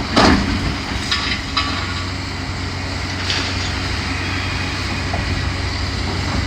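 Demolition excavator's diesel engine running steadily under a sharp knock at the start, then metal clanks with a brief squeal about a second in and another knock around three seconds in, as the machine grabs and pulls at the building's roof and debris.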